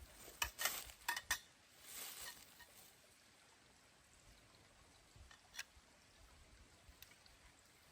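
A few sharp clinks and knocks from objects being handled, bunched in the first second and a half, then a short rustle, with a couple of isolated faint clicks later.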